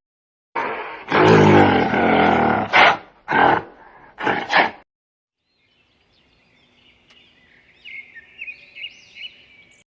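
Loud, harsh animal calls for the first few seconds, a long one and then three shorter ones, followed by faint high bird chirps.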